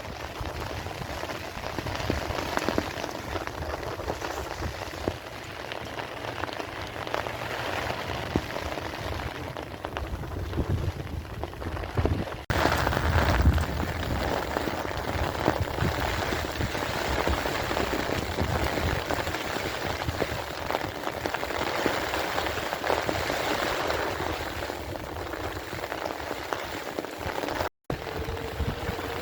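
Steady rain falling, a dense hiss made of many separate drops ticking. The sound changes abruptly about twelve seconds in and drops out for an instant near the end.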